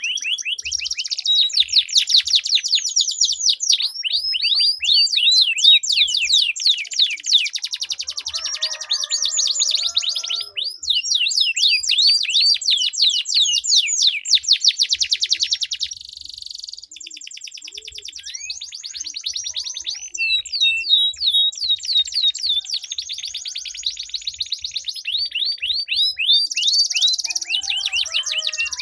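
Domestic canaries singing in duel, a continuous song of long rolling trills: fast runs of repeated sweeping notes, one roll after another, with a softer stretch about midway.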